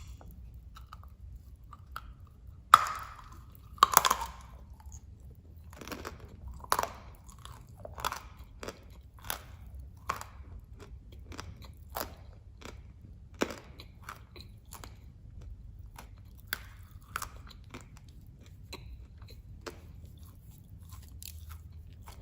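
Crunchy chewing of dry molded edible clay (khawa clay). Two loud crunching bites come about three and four seconds in, followed by a run of short crisp cracks about once or twice a second as it is chewed.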